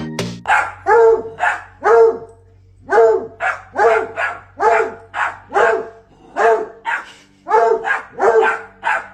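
A dog barking over and over, about three barks a second, in runs broken by short pauses.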